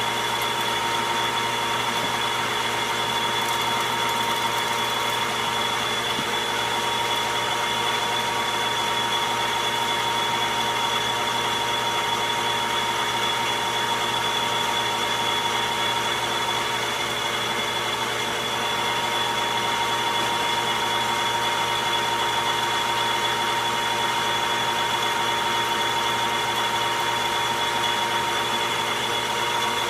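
Logan metal lathe running steadily under power: a constant mechanical whir with two steady high-pitched tones.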